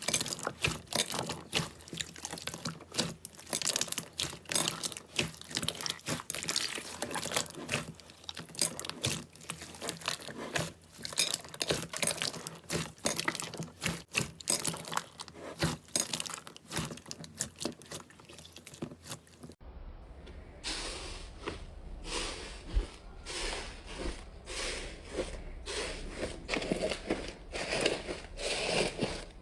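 Slime being squeezed and pressed by hand, with dense crackling and popping clicks. About twenty seconds in it changes to a duller, slower run of sticky presses, each under a second apart.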